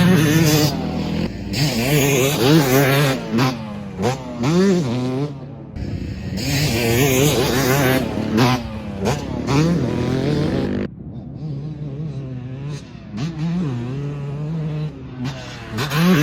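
2025 Yamaha YZ250 two-stroke motocross bike revving hard, its engine pitch rising and falling again and again as the rider works the throttle and gears. The sound changes abruptly twice.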